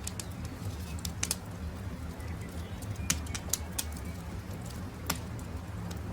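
Campfire crackling: a few sharp pops and snaps over a steady low rumble, with faint bird calls in the background.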